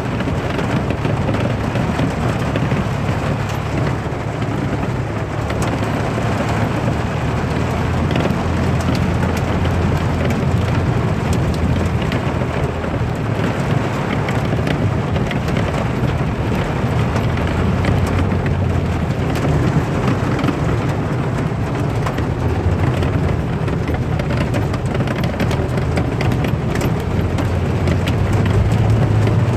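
Steady heavy rain, with many close drop hits over a continuous low rumble.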